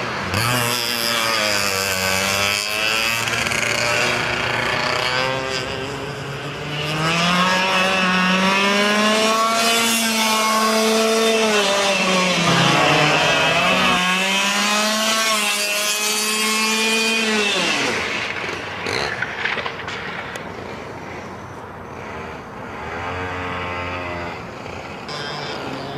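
Easykart 125 kart's 125cc two-stroke engine on a hot lap, its revs climbing in long pulls and dropping off sharply several times, around 2 s in, near 13 s and near 18 s. In the last third it runs quieter and lower before picking up again at the end.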